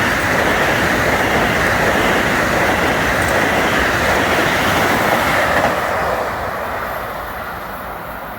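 A deadheading (out-of-service) train passing through the station, wheels on the rails, loud for about six seconds and then fading as it moves away.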